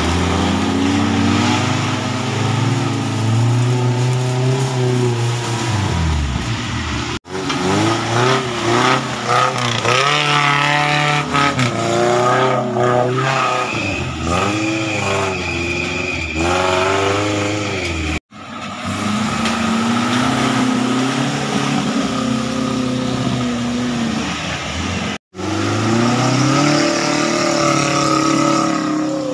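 Engines of modified Suzuki Jimny off-road 4x4s revving hard, pitch rising and falling as they climb a muddy river bed, in several short clips joined by abrupt cuts.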